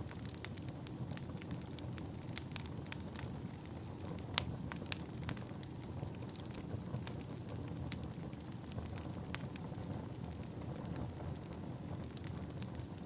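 Wood fire burning in a fireplace, crackling with frequent sharp pops over a steady low hiss of flames; one pop about four seconds in stands out as the loudest.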